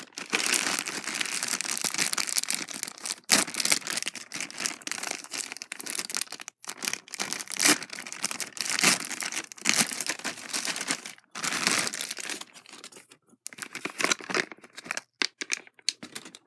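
Packaging crinkling and tearing as a toy dinosaur figure is unwrapped by hand, in spells broken by brief pauses.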